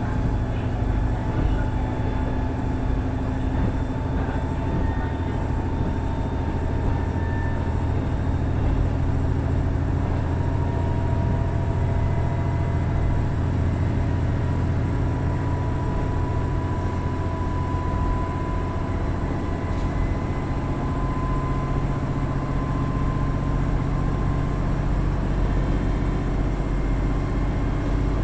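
KiHa 110-series diesel railcar running, heard on board: its 420 PS Cummins DMF14HZA diesel engine and transmission give a steady low hum, with a whining tone that slowly rises in pitch.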